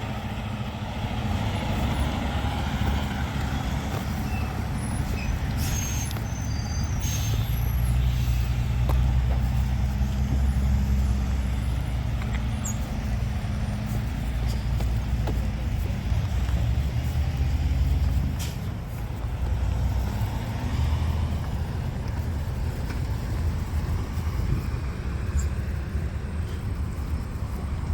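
Heavy diesel truck running, its low engine rumble swelling and easing as it moves, with a couple of short air hisses about six and seven seconds in.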